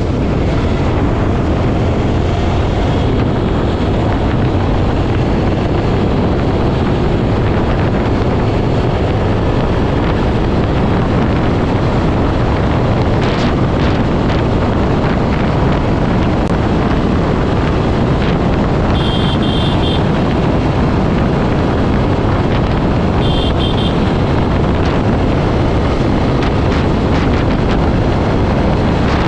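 Heavy wind rushing over the microphone of a motorcycle riding at speed on a highway, with engine and road noise underneath, steady throughout.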